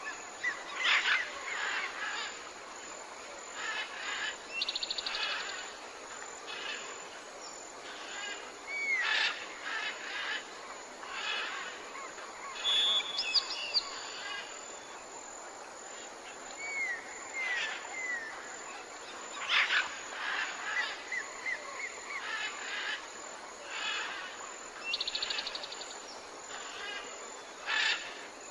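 Several wild birds calling over a steady faint background hiss: short repeated chirps, quick hooked whistles and a couple of fast trills, scattered through without a regular rhythm.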